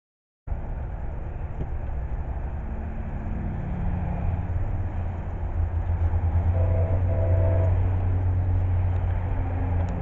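Low, steady diesel rumble of an approaching train that slowly grows louder, with a brief faint tone about two-thirds of the way through.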